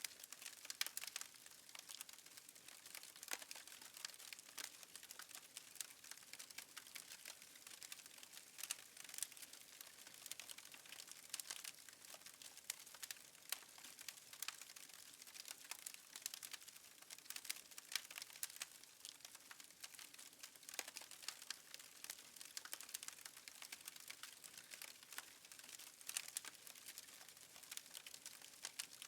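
Wood fire crackling faintly, with many small irregular pops and snaps over a soft hiss.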